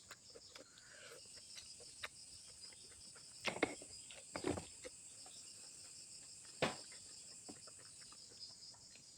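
Close-up eating sounds: soft chewing and mouth clicks, with three louder smacks in the middle, over a steady high-pitched chirring of insects.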